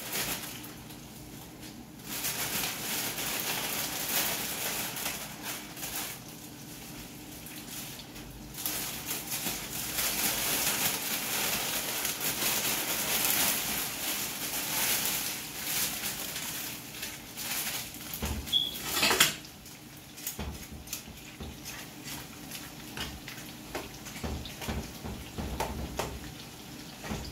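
Chicken strips sizzling and crackling in hot oil in a pan, with a plastic bag crinkling on and off. A loud clatter with a brief metallic ring comes about two-thirds of the way through.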